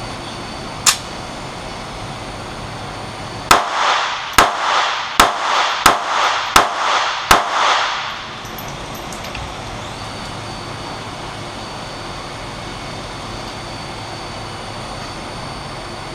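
A string of six shots from a Taurus .380 pistol firing 85 grain Extreme Penetrator rounds in steady succession, about 0.7 s apart, each with a short echo. The pistol cycles each round with no stoppage. A sharp click comes about a second in, before the string.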